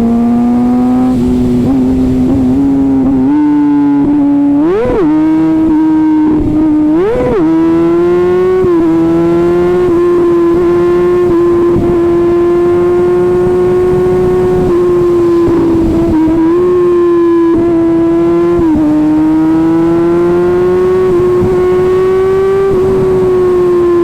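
Kawasaki ZX-6R inline-four with an Arrow titanium exhaust, running at high revs at highway speed. The note climbs slowly and dips a few times, with two quick rev spikes about five and seven seconds in, and wind rush underneath.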